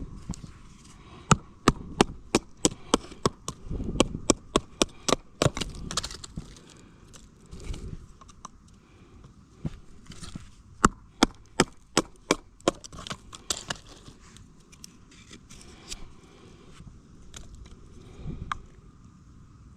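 Firewood being split by batoning: a baton knocking a knife through the wood into kindling, in two runs of rapid sharp knocks at about three a second, then a few scattered knocks near the end.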